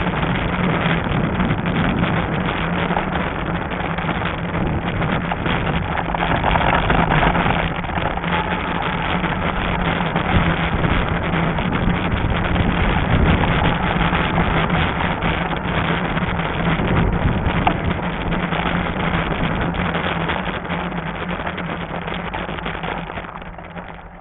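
Wind rushing over the microphone of an action camera riding along on a fat-tire e-bike, a steady noisy rush with a constant low hum beneath it. It dies down over the last couple of seconds.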